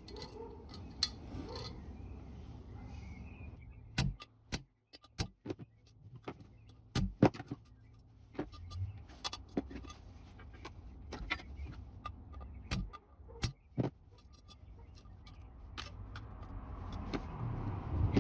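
Small metal engine parts being handled and set down on a bench: irregular sharp metallic clicks and clinks, a few at a time with short gaps, over a low steady background.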